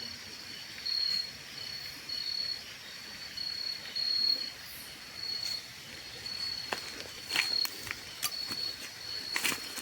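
Insects chirping at night: one high, even chirp repeating about every two-thirds of a second. In the second half come a few sharp clicks and short rustles.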